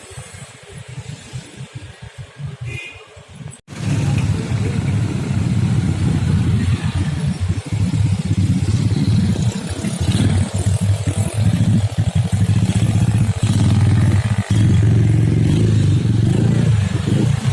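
Road traffic passing close by at a level crossing, a dense low engine rumble with tyre and road noise. It turns much louder suddenly about four seconds in.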